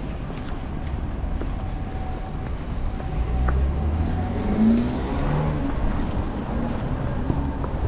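Wind buffeting the microphone, with a motor vehicle's engine passing by about halfway through, rising and then fading.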